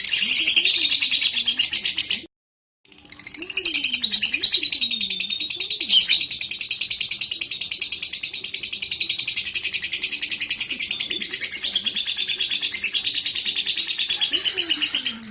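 Lovebird chattering in a long, rapid, unbroken trill of high chirps. The sound cuts out completely for about half a second just after two seconds in, then resumes.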